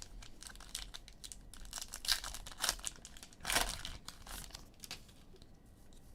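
Sports trading card pack wrapper being crinkled and torn open: a run of sharp crackles, the loudest tear about three and a half seconds in.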